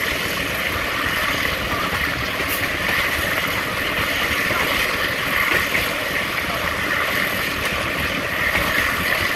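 Passenger train running along the track, heard from inside the coach at an open window: a steady rush of wheel-on-rail noise and moving air, unchanging throughout.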